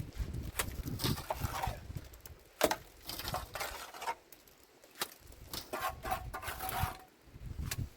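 Irregular knocks and short scraping, crunching sounds, one sharp knock about two and a half seconds in.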